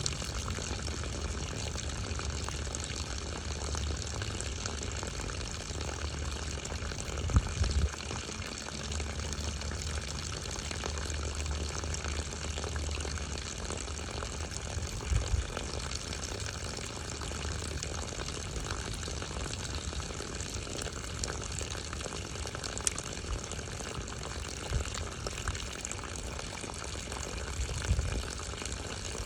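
Steady rushing of running water, with a few brief low thumps.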